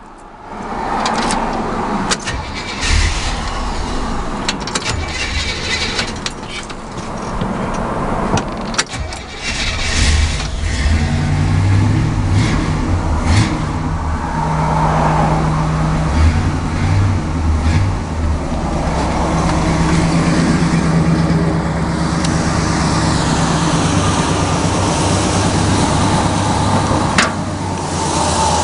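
A 1967 Chevrolet's 327 small-block V8 starting up and running, revved several times with its pitch rising and falling.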